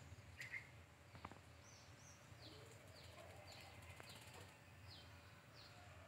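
Faint bird calls: a series of short, high, falling chirps, about two a second, over quiet garden background.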